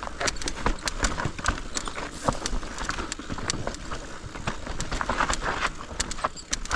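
Mountain bike clattering down a steep, rough trail: tyres crunching over stones and the chain and frame rattling in quick, irregular clicks.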